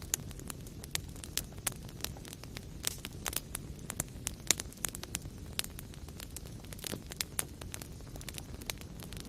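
Wood fire in a fireplace crackling, with irregular sharp pops over a low steady rumble of burning; one louder pop about four and a half seconds in.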